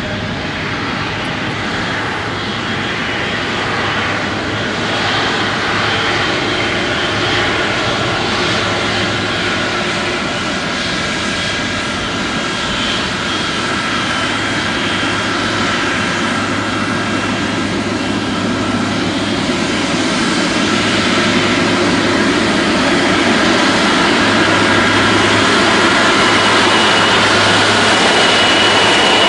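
Jet engines of a Boeing 777-200ER (GE90 turbofans) running, a steady roar with several high whistling tones that slowly grows louder.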